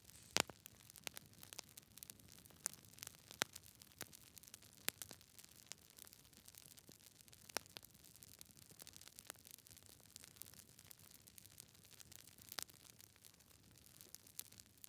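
Wood fire burning in a fireplace: logs crackling with irregular sharp pops over a soft hiss, the loudest pop about half a second in.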